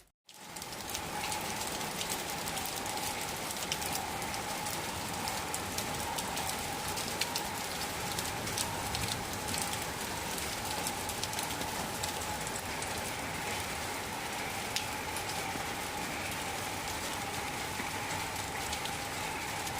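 Heavy rain pouring steadily onto surfaces, with scattered sharp drop ticks. A faint steady tone holds underneath.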